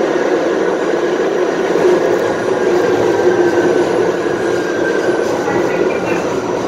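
Kawasaki R68A subway car under way, heard from inside: a steady rumble of wheels on rail with the car's howling whine running over it. The whine slowly drops in pitch through the middle of the clip.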